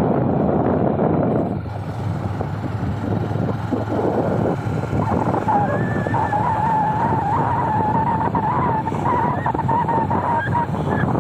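Riding noise of a Honda Dream 110cc single-cylinder motorcycle: engine, road and wind buffeting on the microphone. From about five seconds in, a long, wavering horn note sounds for about five seconds over it.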